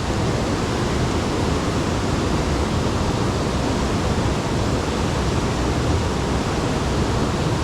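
Steady rushing roar of high water pouring through the dam's floodgates.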